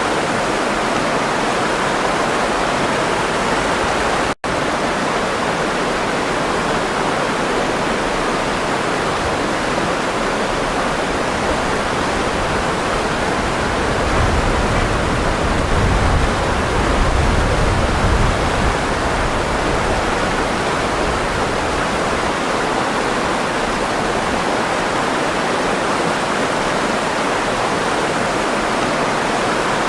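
Running water rushing steadily, a stream or small waterfall. About four seconds in it cuts out for an instant, and a deeper low rumble swells for a few seconds past the middle.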